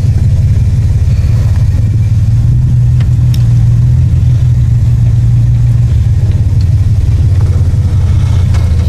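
Toyota 4Runner engine running steadily at low revs as the truck crawls up a steep off-road climb, a low even engine note without much change in pitch.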